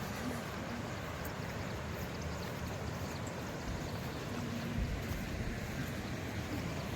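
Steady rush of water running down a small hillside cascade, with low wind rumble on the microphone.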